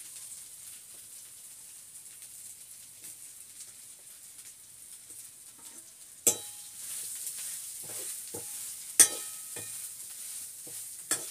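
Soya chunks frying in hot oil in a metal kadhai, a steady high sizzle. From about six seconds in, a metal spatula stirs them, the sizzle grows louder and there are sharp clanks of spatula on pan, the loudest about nine seconds in.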